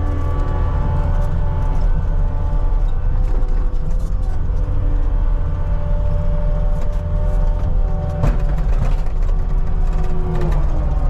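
CAT 279D compact track loader's diesel engine running steadily under load while pushing dirt, with a hydraulic whine that shifts in pitch and a few clanks about eight seconds in.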